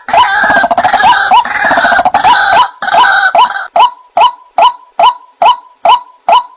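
White-breasted waterhen (ruak-ruak) calling over and over with a short, sharp, upward-bending call. For the first few seconds the calls overlap in a dense, busy chorus; then they settle into a single even series of about two calls a second.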